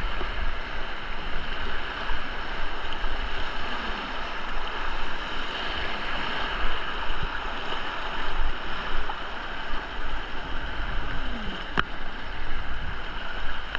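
Steady rush of river whitewater on a slalom course, with wind buffeting the microphone as low rumbling. A single sharp click sounds about twelve seconds in.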